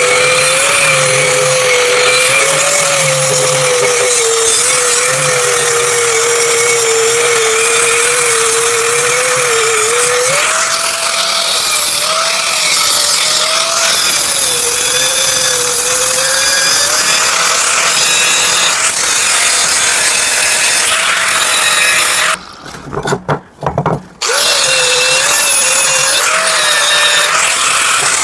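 Power grinder grinding a welded steel axe blade, smoothing weld spatter and bead and dressing the edge. Its pitch wavers as the disc is pressed into the steel. It drops out for about two seconds near the end, with a few short bursts, then runs again.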